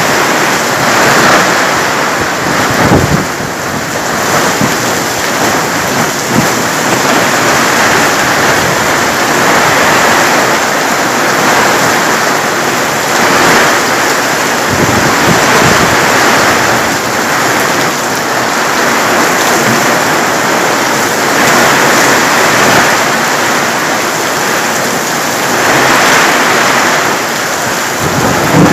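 Heavy rain pouring down in gusty wind, the downpour swelling and easing every few seconds, with a few brief low thuds.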